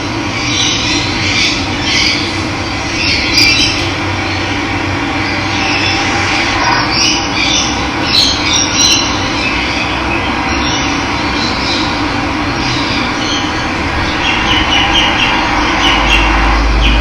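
Steady rush of running water with wild birds chirping and calling over it. A low rumble comes in near the end.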